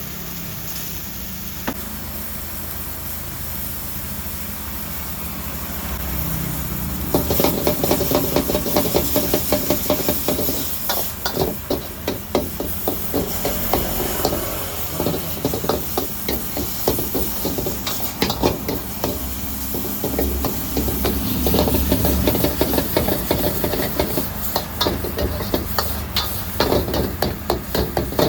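Stir-frying in a wok: a steady sizzling hiss, then from about seven seconds in a rapid run of metal spatula scrapes and clanks against the wok.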